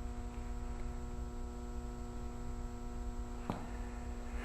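Steady electrical mains hum, with one faint click about three and a half seconds in.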